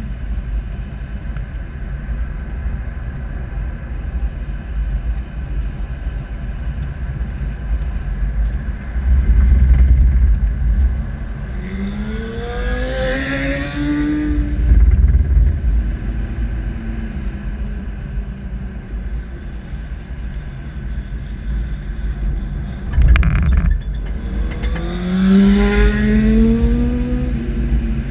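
Sport motorcycles accelerating past twice, the engine note climbing in pitch each time, over the steady low rumble of the camera vehicle and wind on the microphone. A sharp knock sounds shortly before the second pass.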